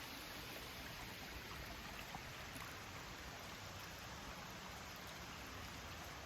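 Steady rushing of a mountain stream, with a few faint ticks.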